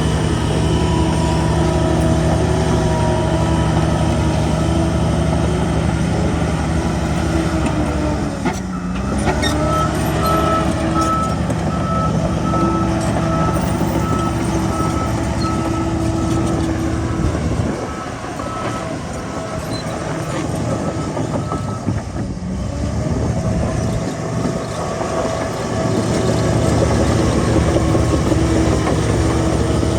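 Heavy diesel earthmoving machinery (bulldozer and dump trucks) running steadily under load. About nine seconds in, the engine note dips and climbs back. A reversing alarm beeps repeatedly for several seconds in the middle.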